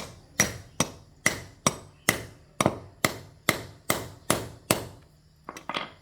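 Hammer blows: about a dozen steady, evenly spaced strikes, a little over two a second, each ringing briefly. The blows stop a little under five seconds in, followed by a few lighter knocks near the end.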